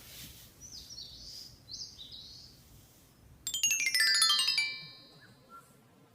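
Small forest birds chirping, a few short high rising notes, then about three and a half seconds in a louder quick descending run of ringing, chime-like notes that dies away within about a second and a half.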